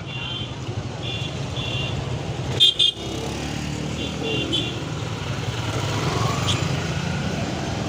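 Road traffic: vehicle engines running steadily, with short high-pitched horn toots sounding again and again.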